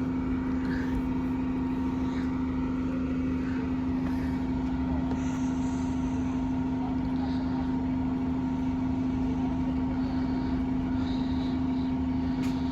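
A steady machine hum: one constant low tone that does not change in pitch or level, over a background of traffic noise.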